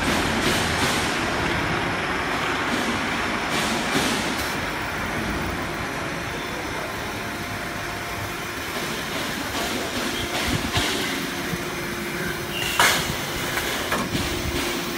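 Automatic sheet-metal HVAC duct production line running: steady machinery noise, with a low hum coming in about ten seconds in and a few sharp clanks near the end.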